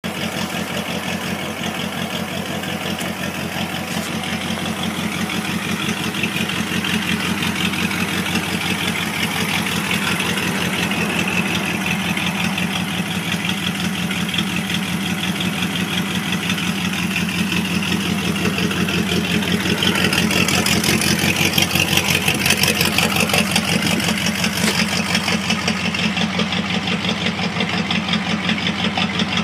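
Ford flathead V8 in a Model T hot rod idling steadily, with an even, rapid exhaust pulse. It gets a little louder and brighter about twenty seconds in.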